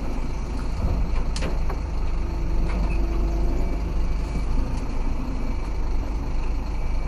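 Scania 26-tonne curtainsider truck's diesel engine running steadily at low speed, with a sharp click about a second and a half in.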